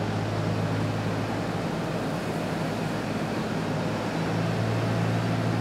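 Tractor engine running steadily while a tractor-driven straw chopper chops and blows straw: a constant low hum under a steady rushing noise.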